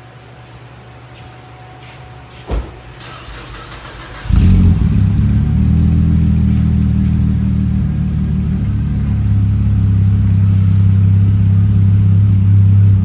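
A 2010 Cadillac CTS's 3.6-litre LLT V6 fires up about four seconds in, after a sharp click, and settles into a loud, steady, deep idle through Flowmaster Super 10 mufflers.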